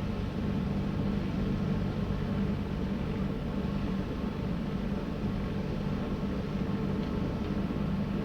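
Distant helicopter running, a steady low drone with no rise or fall in level.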